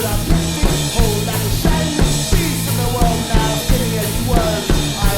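Rock band playing an instrumental passage with no vocals: a drum kit keeps a steady beat over bass and lead lines that bend in pitch.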